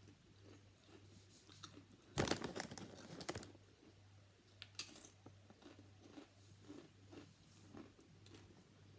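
A person biting and chewing crunchy food close to the microphone, with the loudest run of crunching about two seconds in lasting around a second, and another short crunch near the middle.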